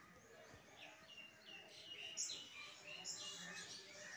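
Small birds chirping faintly: a series of short, high chirps, the two loudest about two and three seconds in.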